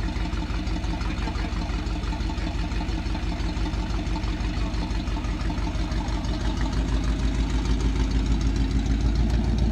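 Three-wheeled motorcycle's engine running at low speed with a steady low rumble, getting a little louder about seven seconds in.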